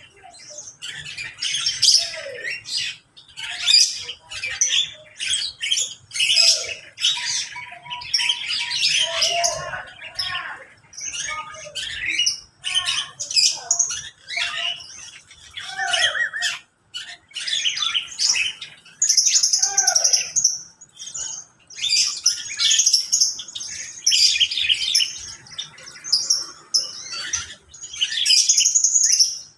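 A flock of mixed caged birds in an aviary, lovebirds among them, calling constantly with many high, overlapping calls.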